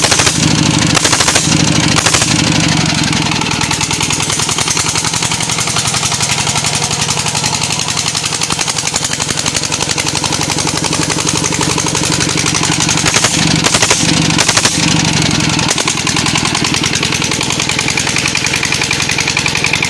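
Single-cylinder diesel engine of a walking tractor running with a rapid, even chugging beat, with a few short revs near the start and again a little past the middle.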